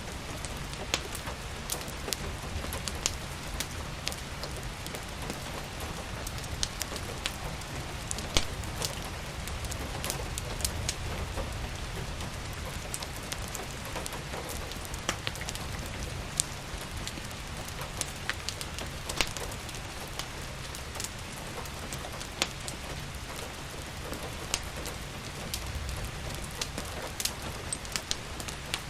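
Steady rain mixed with a crackling wood fire: a continuous hiss and low rumble, broken by scattered, irregular sharp pops.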